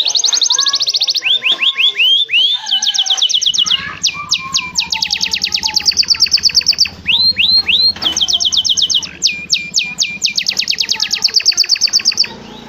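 Domestic canary singing in fast trills: runs of rapid, identical high notes, each tour held a second or two before switching to a new note, rising and falling swoops between them.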